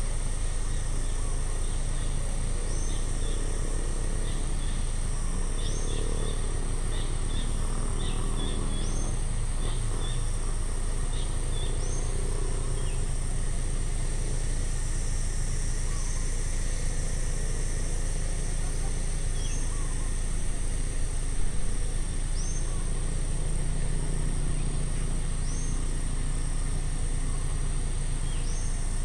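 Outdoor ambience: a steady high insect drone, a short falling bird call repeating about every three seconds, and a steady low rumble underneath.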